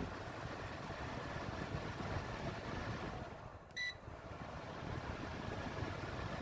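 Electric table fan running with a steady whoosh of air. The air noise dips briefly about halfway through, then the fan gives a single short electronic beep, as it does when a button press registers.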